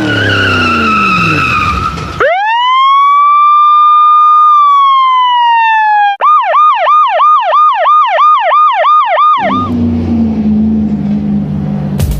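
Police car siren sound effect. A wail rises, holds and slides down, then switches to a fast yelp warbling about three times a second, and gives way to a low steady hum near the end.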